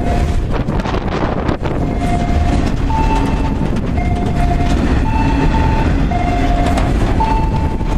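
Freight train of boxcars rolling past: a steady rumble with wheel clatter. Over it, a repeating two-note tone alternates low and high about once a second.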